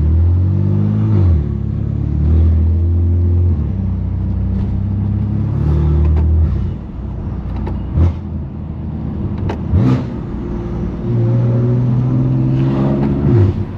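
Straight-piped S55 twin-turbo inline-six of a 2018 BMW M3 Competition pulling through the gears, its loud exhaust note rising in pitch and dropping at each shift. Two short sharp cracks come about eight and ten seconds in.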